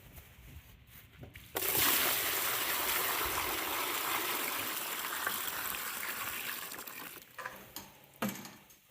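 Dry chicken feed pouring out of a bag into a plastic storage tote, a steady rushing hiss that starts suddenly and slowly thins out as the bag empties.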